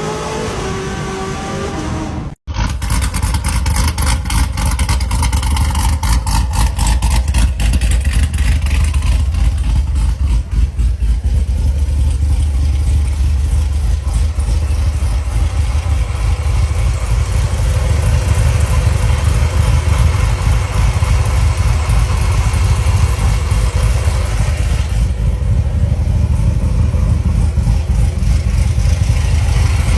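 Corvette C7 Z06's supercharged V8 running with a deep, steady exhaust rumble. Its note rises slightly in the first two seconds, then the sound cuts out for an instant before the rumble carries on.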